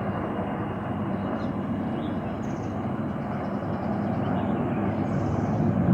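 Helicopter flying, a steady engine and rotor noise that grows louder over the last couple of seconds.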